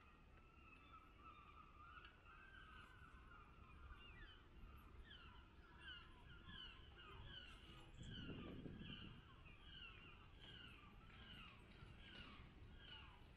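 Faint bird calls: many short, falling calls repeating two or three times a second, over a quiet outdoor background. There is a brief low rumble about eight seconds in.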